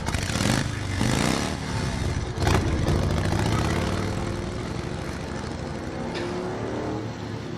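Motorcycle engines revving, rising in pitch twice in the first two seconds, then running steadily as the level slowly falls.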